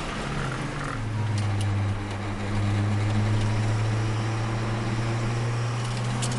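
Turbocharged Nissan Micra engine heard from inside the cabin: the revs fall sharply in the first second as the car slows for a corner, then settle into a steady low drone that climbs slowly in pitch.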